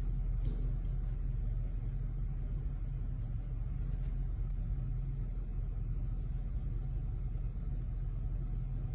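Four-wheel-drive wagon's engine running steadily at low revs as it crawls up a loose, rutted dirt track, a low even rumble without revving up or down.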